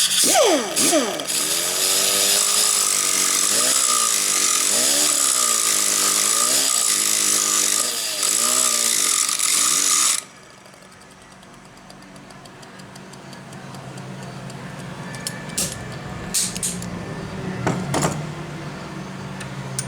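A small power grinder running for about ten seconds, its pitch dipping and recovering as it bears on the metal, grinding down a high spot where the Briggs & Stratton FI's flywheel rubs the magneto coil plate. It stops suddenly, followed by a few light metallic clicks of parts being handled.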